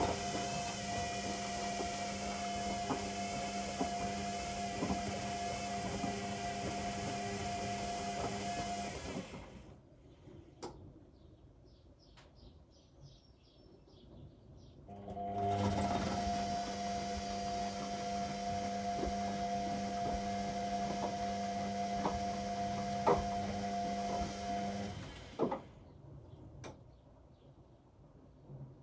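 Washing machine drum motor running in the wash cycle: it turns the drum with a steady hum for about nine seconds, stops for about five seconds with only faint clicks, then runs again for about ten seconds, with occasional knocks from the load tumbling.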